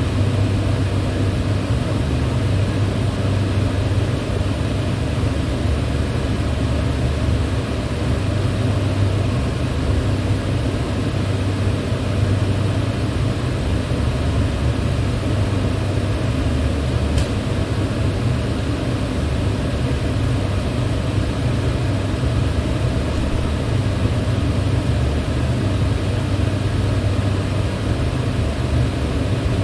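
Electric fan running steadily, a low hum and even whoosh of moving air.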